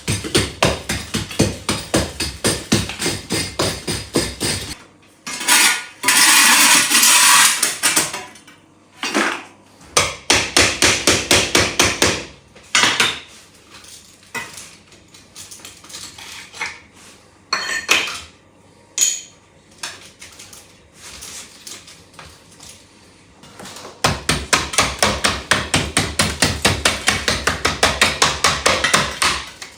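Rapid, even striking, about four blows a second, in two long runs. Between the runs are a stretch of scraping and a few scattered knocks.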